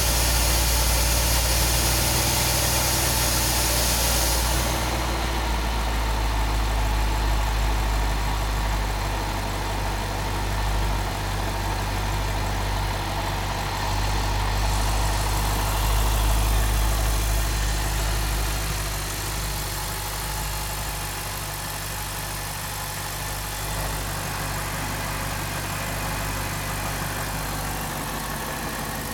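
BMW 645Ci's 4.4-litre V8 idling steadily shortly after a cold start, its level easing down a little from about two-thirds of the way through.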